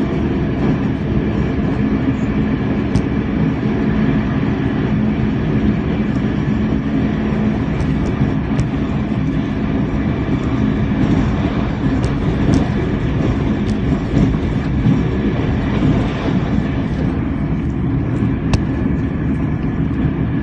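Puyuma Express tilting electric train running through a station at speed: a steady, loud rail rumble with a few scattered sharp clicks.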